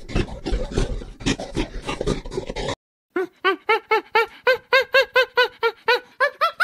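Irregular rustling, crackling noise with clicks, which breaks off about three seconds in. After a brief pause comes a baboon's rapid run of short calls that rise and fall in pitch, about three a second, climbing higher near the end.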